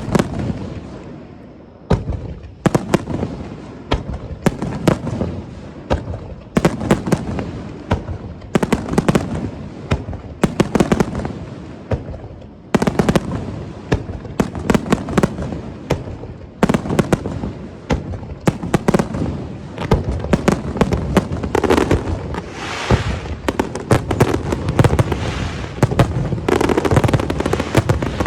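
Fireworks display: a rapid barrage of aerial shells bursting, several bangs a second overlapping with their echoes, with a stretch of fizzing crackle about three-quarters of the way through.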